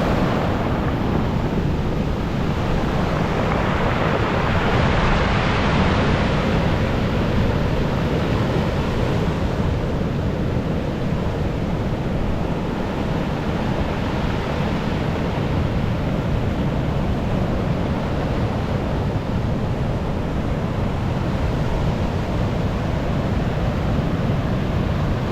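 Storm waves surging and breaking on the seashore, with wind rumbling on the microphone. One wave rushes in louder a few seconds in.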